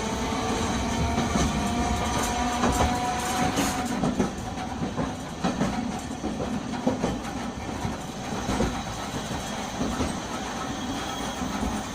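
Nagasaki Electric Tramway 370-series streetcar running between stops, heard from inside the car. A motor whine slowly rises in pitch over the first few seconds, then the wheels clack and knock over rail joints through the rest.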